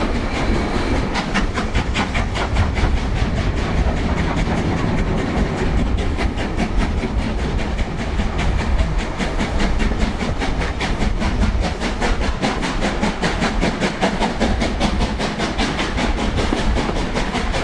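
LMS Black Five two-cylinder 4-6-0 steam locomotive working a train, its exhaust beating in a rapid, even rhythm over the steady rumble of the train running on the rails.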